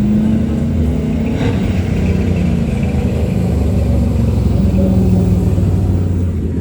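Vehicle engine running with a steady low rumble, its pitch drifting a little up and down.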